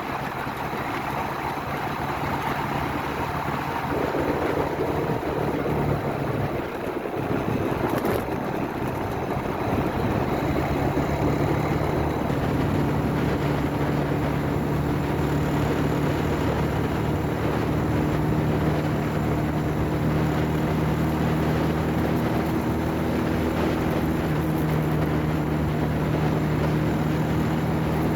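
Motorcycle engine running while riding, with road and wind noise. The engine note shifts a couple of times in the first several seconds, then holds steady.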